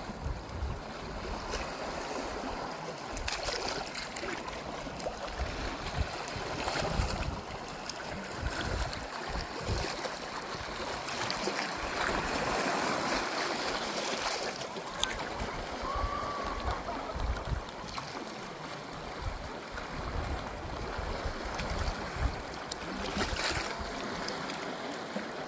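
Sea waves washing on the shore, a steady rushing noise, with wind gusting over the microphone.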